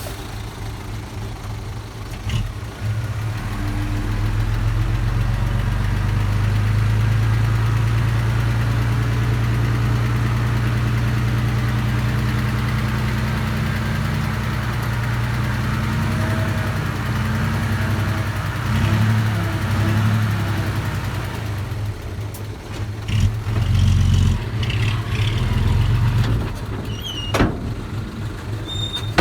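Engine of a small earthmoving machine (mini dump truck or small bulldozer) running steadily, its speed and loudness shifting in the second half as it works, with a few sharp knocks near the end.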